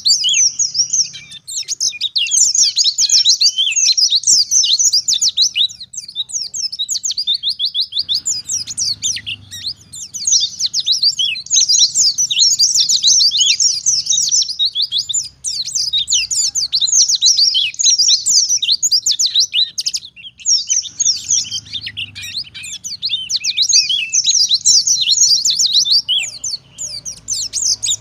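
White-eye (pleci, Zosterops) singing a fast, high twittering song in long runs of rapid notes, broken by short pauses.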